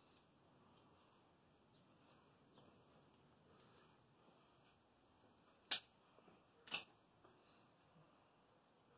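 Faint high chirps from a small bird, repeating every half second or so, then two sharp clicks about a second apart.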